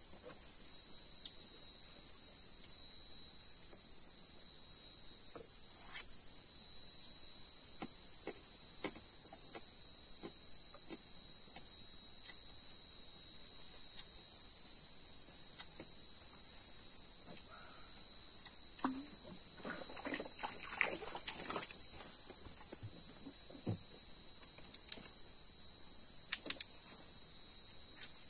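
Steady high-pitched chorus of crickets and other night insects, with scattered small clicks and knocks, a cluster of them about two-thirds of the way through.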